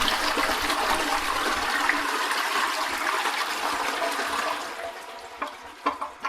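Recorded toilet flush: a loud rush of water that dies away over the last couple of seconds, with a few small clicks near the end.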